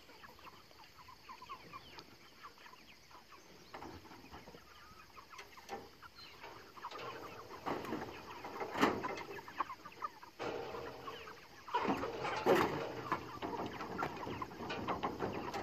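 Broiler chickens clucking and chirping, quietly at first, with louder bursts of rustling and scraping about halfway through and again a few seconds later.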